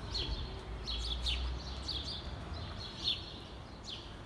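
Small songbirds chirping in street trees: a steady run of short, high chirps, several a second, over a low background rumble.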